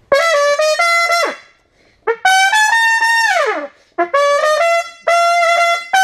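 A trumpet-like brass horn playing five short phrases of a few held notes. Each phrase ends in a sharp downward fall in pitch.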